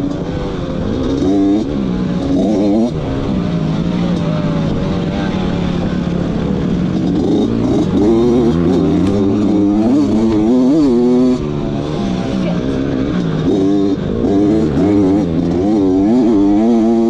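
Dirt bike engine being ridden, loud and close. It holds a steady note for a few seconds, then revs up and drops back again and again as the throttle opens and closes.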